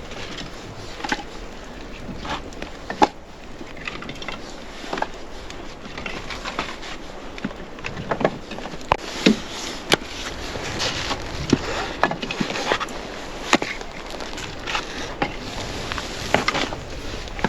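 Irregular clicks and knocks, one every second or so, over a steady noisy background.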